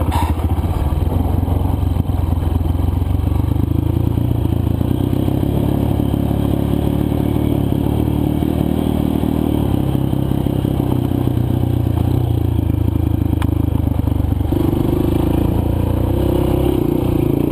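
Four-stroke single-cylinder dirt bike engine running steadily while riding, with a change in engine note a little after three quarters of the way through.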